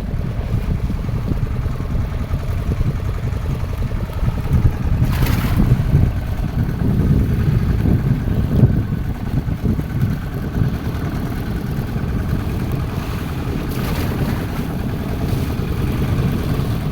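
A fishing boat's engine running steadily at sea, a continuous low rumble. A brief rushing hiss cuts in twice, about five seconds in and again near fourteen.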